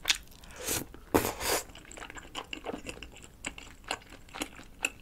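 Close-miked chewing of a chewy wheat-flour rice cake in cream sauce: wet smacks and small sticky clicks of the mouth. A few louder smacks come in the first second and a half, then softer clicks follow.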